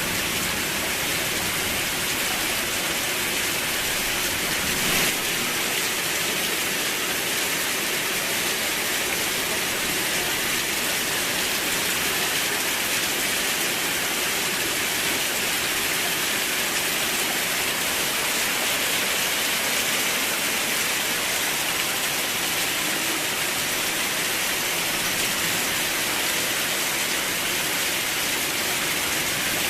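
Steady heavy rain falling. A low rumble of thunder dies away in the first few seconds, and a single brief sharp sound stands out about five seconds in.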